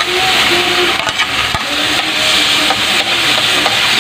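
Chopped tomatoes sizzling in hot oil in a wok with sautéing garlic, ginger and onion, stirred with a spoon, with one soft knock about a second and a half in.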